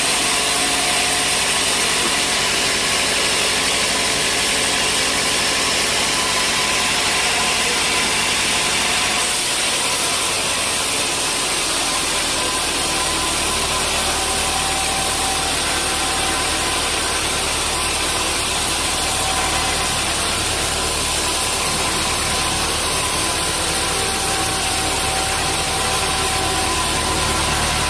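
Sawmill machinery running steadily, an even mechanical noise with faint steady tones. About ten seconds in, a deeper low hum joins and holds.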